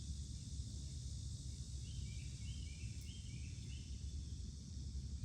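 Outdoor ambience: crickets and insects making a steady high-pitched drone over a low rumble, with a short run of soft bird chirps about two seconds in.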